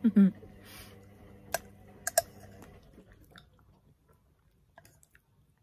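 A person chewing a spoonful of overnight oats with the mouth closed, with a short vocal sound at the start and a few sharp clicks in the first two seconds or so, growing quieter toward the end.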